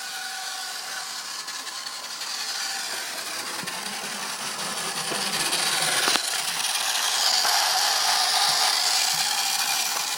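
Small battery-powered electric motor and plastic gears of a TrackMaster toy bus running steadily. The whir grows louder and higher about six seconds in, with a single click at that point.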